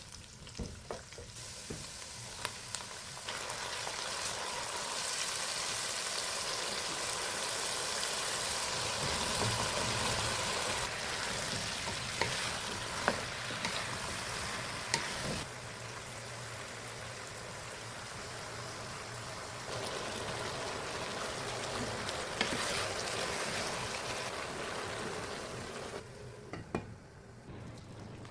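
Food sizzling as it fries in a pan, with occasional sharp clicks of a utensil stirring it. The sizzle grows louder and softer in steps through the stretch.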